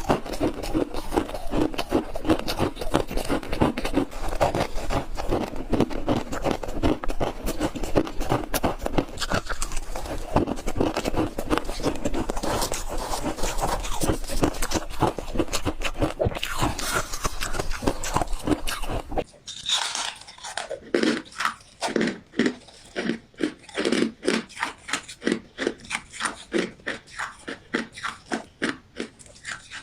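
Ice being bitten and chewed close to the microphone, with a dense run of crunches. About two-thirds of the way in, the sound changes abruptly to separate chewing crunches at about two a second.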